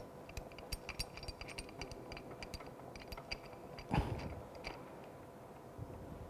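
Pipe wrench tightening a threaded tee fitting onto galvanized steel pipe: faint scattered metal clicks and scraping from the jaws and threads, with one louder clunk about four seconds in.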